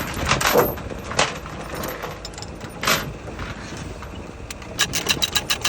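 Steel tie-down chains clinking and clanking as they are hooked into a load binder. About five seconds in comes a rapid run of clicks as a ratchet binder is cranked to tension the chain.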